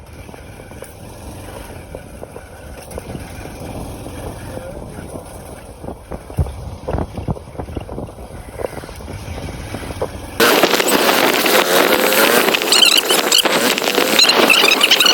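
Motorcycle ride: a low rumble with a few knocks, then an abrupt cut about ten seconds in to a much louder sound of many quick, high, wavering squeals.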